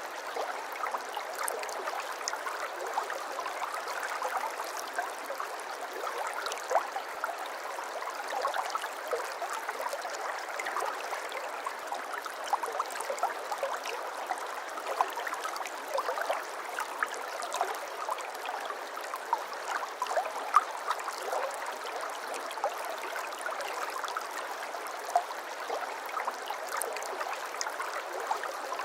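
Water flowing and trickling in a small stream, a steady babbling with many small splashes and drips.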